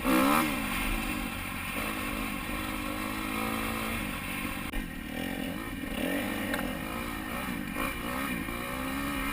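Dirt bike engine being ridden, its pitch rising and falling as the throttle is opened and closed, with a louder surge right at the start.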